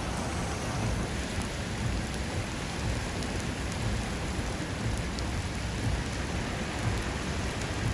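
Heavy typhoon rain falling steadily, with a fluctuating low rumble underneath.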